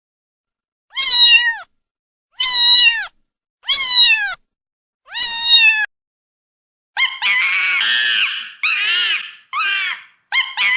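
Domestic cat meowing four times, evenly spaced, each meow falling in pitch at its end. About seven seconds in, a run of rougher, noisier calls follows.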